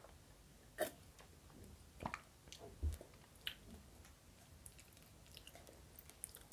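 Faint chewing and swallowing with the mouth closed: a few soft, wet clicks and smacks about a second apart, and one soft low thump about three seconds in.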